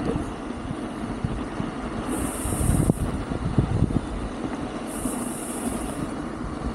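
Wolf King GT Pro electric scooter riding downhill on a rough dirt road: a steady rumble of tyres and wind noise on the microphone, with a few knocks from bumps about three to four seconds in.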